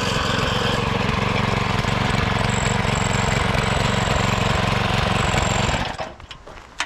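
Small petrol lawn-mower engine running steadily, then shut off about six seconds in. A few light knocks follow, with a sharp click near the end.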